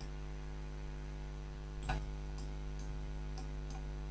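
Computer mouse clicks over a steady electrical mains hum: one sharper click about two seconds in, then a few lighter clicks.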